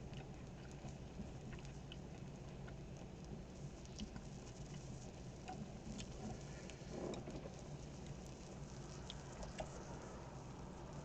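Faint close-miked chewing with scattered small, wet mouth clicks.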